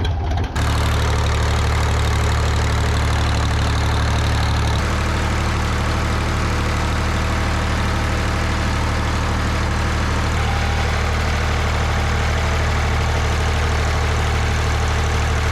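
Tractor engine running steadily, heard close up, with a strong low hum; its sound shifts about five seconds in and again about ten seconds in.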